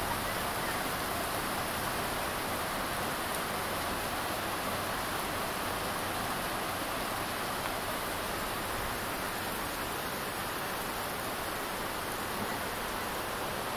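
Steady rain falling on leaves and a wet paved lane: an even, unbroken hiss.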